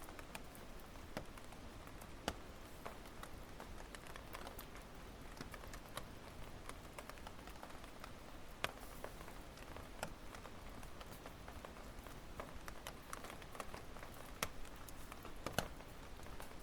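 Wood campfire crackling: irregular sharp snaps and pops over a soft steady hiss, with a few louder snaps among them.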